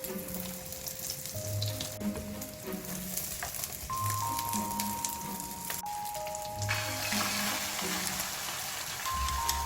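Food sizzling as it fries in a pan, growing much louder about two-thirds of the way in, under background music with held notes and a slow repeating bass line.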